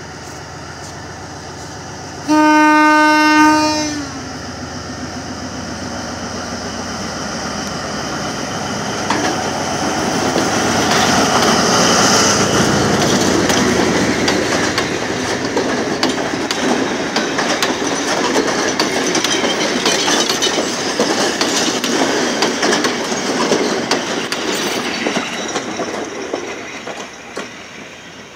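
Sri Lankan diesel passenger train sounding one steady horn blast of about a second and a half, about two seconds in. It then passes close by, its wheels clicking over the rail joints, loudest about halfway through, and fades as it runs away.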